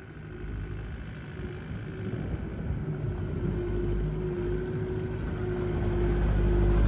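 Engine of a machine working in deep snow, running with a low rumble and a steady whine, growing steadily louder.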